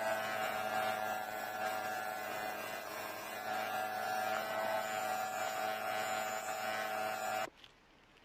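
A small motor running with a steady hum and buzz, cutting off suddenly near the end.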